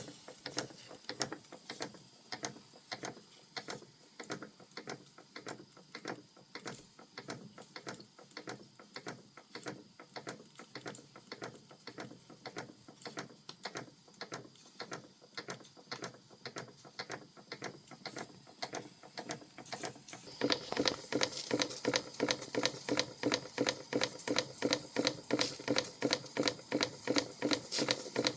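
Vintage Krick model marine steam engine running, its moving parts making a steady, rapid mechanical clicking and clattering that becomes louder about twenty seconds in.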